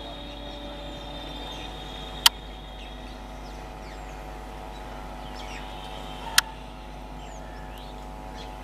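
Electric multiple-unit local train approaching, a steady hum with several held tones, with birds chirping. Two sharp clicks stand out, about two seconds in and again past six seconds.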